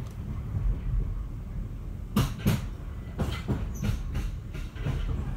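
Class 465 electric multiple unit running on the track, heard from inside the carriage: a steady low rumble with its wheels clicking over rail joints, a strong pair of clacks about two seconds in and further clacks following every third of a second or so.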